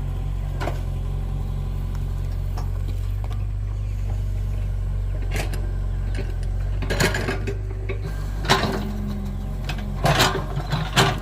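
An engine running steadily at a low, even pitch. Several sharp knocks and clatters come over it, more of them in the second half.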